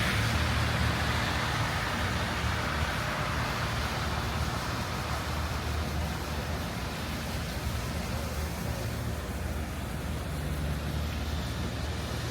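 City street traffic: vehicle engines running with a steady low rumble under a wash of road noise, a louder hiss fading away in the first seconds as something passes.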